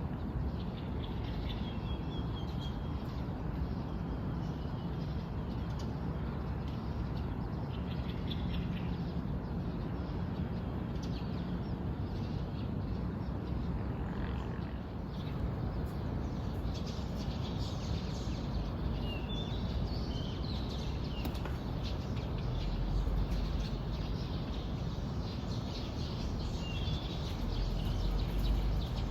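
Small birds chirping in scattered short calls, several at a time in places, over a steady low background rumble.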